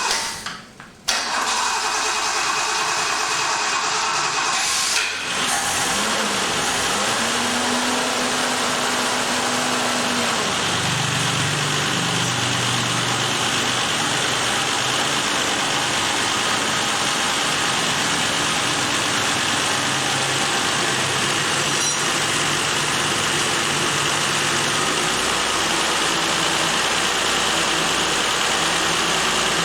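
Car engine running steadily, coming in suddenly about a second in.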